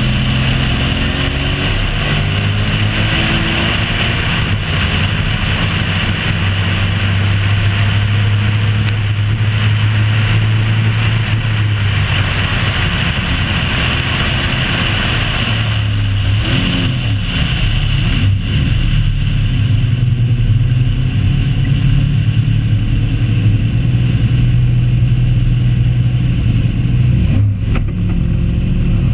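Car engine running hard at speed through a track lap, a steady loud note over a constant rushing hiss; a little past halfway the note wavers and drops, then picks up again.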